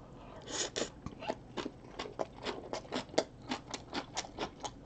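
A person chewing a mouthful of bulgogi bibimbap with kimchi. There is a steady run of short, crunchy, wet chewing sounds, about three to four a second, starting about half a second in.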